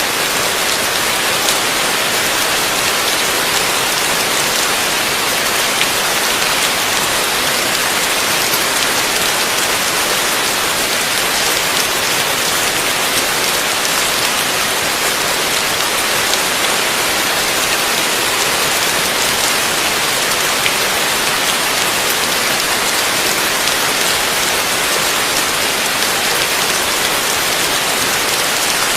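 Heavy rain falling steadily, a dense even hiss of drops with fine pattering ticks.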